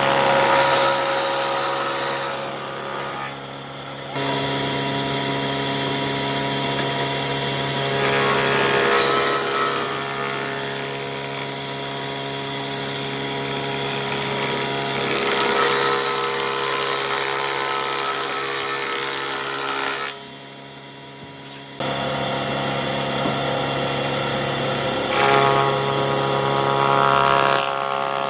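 Electric power tool working wood, its motor running with a steady hum under a noisy cutting or sanding sound. The sound drops off abruptly about 4 seconds in and again for a couple of seconds around 20 seconds in, then comes back.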